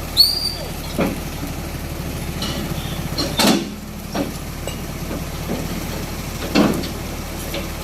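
Heavy diesel engine running steadily, with a short high squeal just after the start and a few sharp metal clanks spread through the rest.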